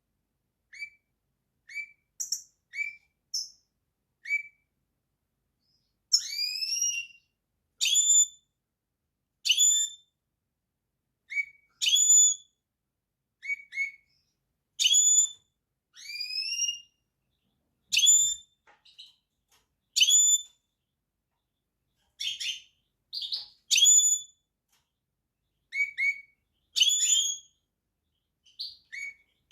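Caged finch calling: short, whistled chirps that sweep upward, repeated every second or two, faint at first and louder from about six seconds in.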